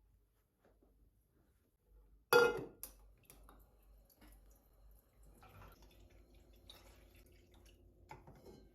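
Kitchen handling sounds: a dish or glass set down with a sharp ringing knock about two and a half seconds in, followed by light clicks and a faint steady hum.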